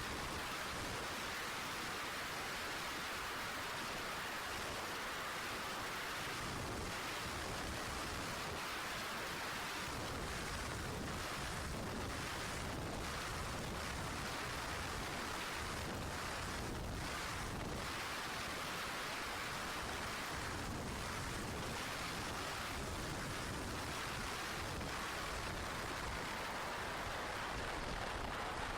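Steady rush of wind and water on a fast-running open centre-console powerboat, an even hiss with no clear engine tone.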